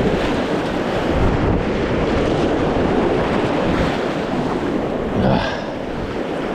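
Rushing whitewater of a creek rapid, steady and close, with wind noise on the microphone.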